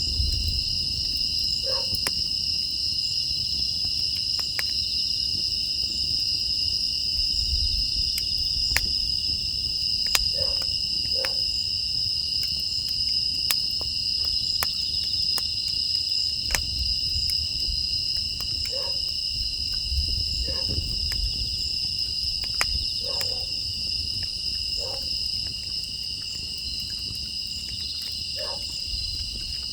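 Steady chorus of crickets and other grass insects, two unbroken high trills layered together. Sparse faint clicks and short low calls every few seconds sound beneath it.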